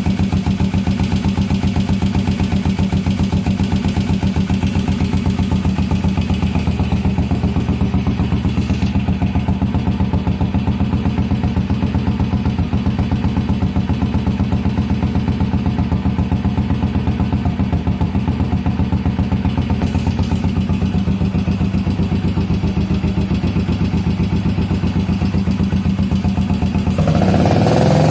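1981 Yamaha SR500's single-cylinder four-stroke engine at a rough idle, with an even, pulsing exhaust beat. Near the end the throttle is opened and the revs rise.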